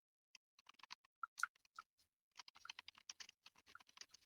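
Near silence with scattered faint clicks, a few a little louder about a second and a half in and a loose cluster past the middle.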